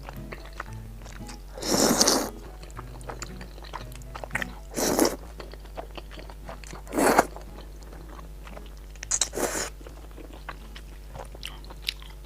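Close-miked eating of Xinjiang fried rice noodles and beef tendon: chewing and biting with small wet mouth clicks, and four louder mouthfuls spaced a few seconds apart. Faint background music underneath.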